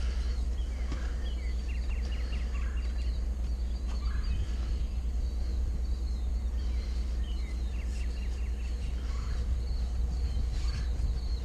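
Songbirds singing outdoors: a quick run of short, high repeated chirps, heard twice, over a steady low rumble.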